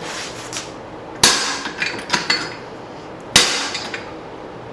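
Hammer blows on hot leaf-spring steel over the edge of an anvil as a hatchet blade is broadened: two heavy strikes about two seconds apart, each ringing briefly, with lighter taps in between.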